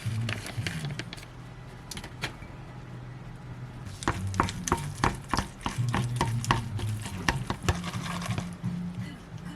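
Instant cup noodles being stirred and mixed in their cup with a utensil. From about four seconds in comes a quick, irregular run of clicks and scrapes.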